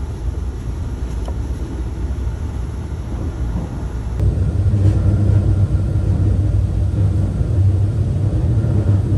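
Steady low rumble of the Saphir Odoriko express train running, heard from inside the passenger car. It grows louder about four seconds in.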